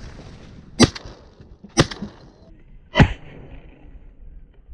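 Three shotgun shots fired at ducks, about a second apart.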